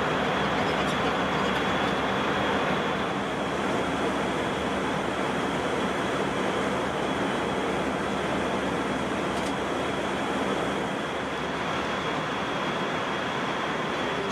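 Steady cabin noise of an Airbus A321 airliner in flight: airflow and engine noise, with a faint high whine held throughout.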